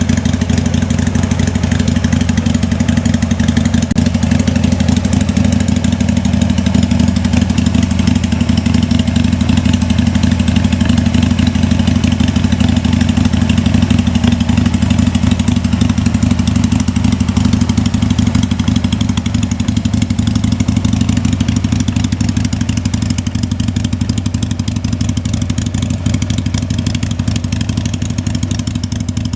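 2003 Harley-Davidson XLH883 Sportster's air-cooled 883 cc V-twin engine running steadily at an even speed, with no revving.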